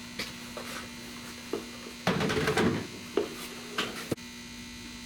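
A steady electrical hum with a few light clicks and knocks of handling. About two seconds in comes a brief, louder scraping rustle.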